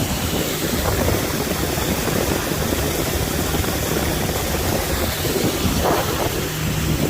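Tour boat's motor running steadily under way, a low even hum mixed with rushing wind noise on the microphone.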